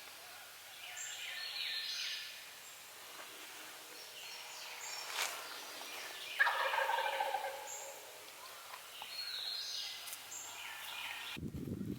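A wild turkey gobbler gobbles once, a rattling call that falls in pitch, about halfway through, with songbirds singing before and after it. A low thump near the end.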